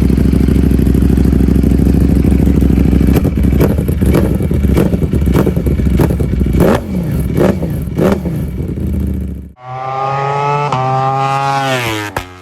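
Ducati Panigale V4 S engine with an Arrow exhaust, idling steadily, then revved in a run of about seven or eight quick throttle blips. After an abrupt cut comes a higher, steadier engine note whose pitch drops near the end.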